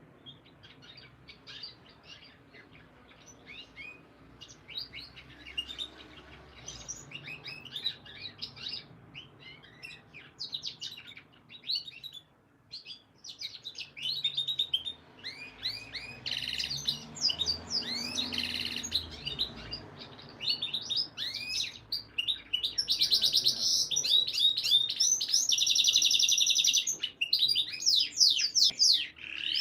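Canary song: phrases of rapid, short down-sweeping notes that grow louder, with a fast, dense trill near the end.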